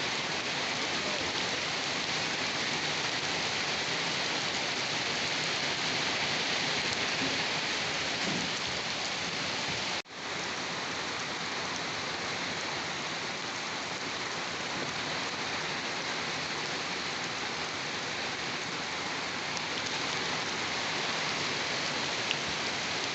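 Steady heavy rain falling on surfaces, an even hiss of many drops, with a sudden brief drop-out about ten seconds in.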